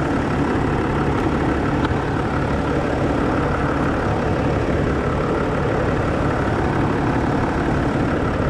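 Land Rover Discovery 4's 3.0 V6 diesel engine idling steadily, heard from beside the open engine bay, with its newly fitted alternator charging.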